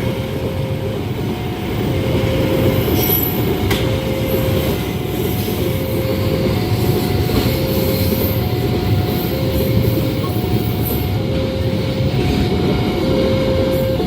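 A train's cars rolling past at speed over a level crossing, a loud steady rumble of wheels on rail with brief high wheel squeal on the curve. Over it the crossing's electronic warning alarm sounds, alternating between a low and a higher tone, each held just under a second.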